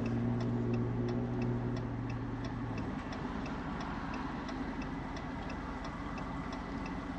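A car's indicator flasher ticking evenly inside the cabin, over a low steady engine hum that stops about three seconds in.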